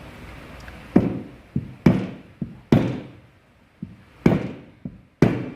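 Hammer blows seating the crankshaft of a Bajaj Pulsar AS 150 engine into its crankcase on tight new bearings. There are five heavy knocks about a second apart, with lighter taps between them.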